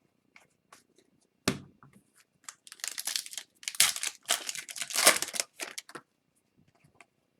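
A sharp knock, then crinkling and tearing of a foil trading-card pack wrapper as it is handled and torn open.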